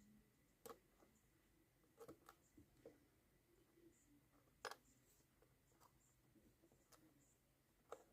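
Near silence broken by a few faint, short clicks and taps of small parts being handled, the loudest a little past halfway.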